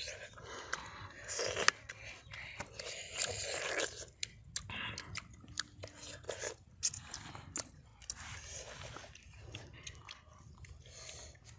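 Fried pork being bitten and chewed, an irregular string of short sharp clicks and mouth noises.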